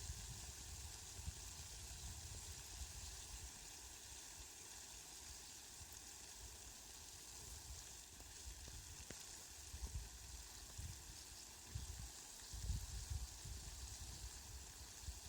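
Rain falling, a faint steady hiss, with irregular low rumbles, strongest about ten and twelve seconds in.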